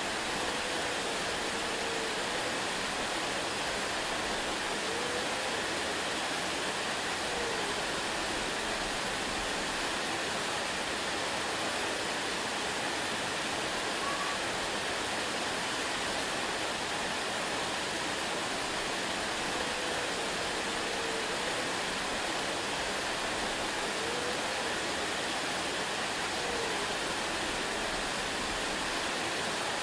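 Waterfall rushing with an even, unbroken roar of falling water.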